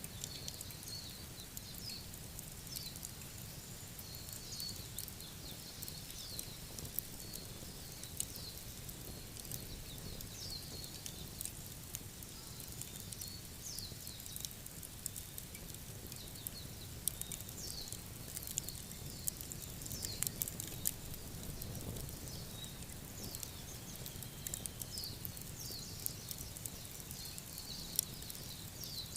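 Campfire crackling with frequent sharp pops over a steady low rumble, while short, high chirping calls repeat throughout.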